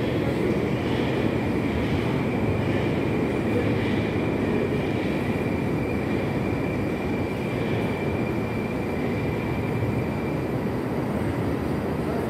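Steady rumble of an approaching Lastochka electric train on the rails, with a thin, steady high wheel squeal that fades out near the end.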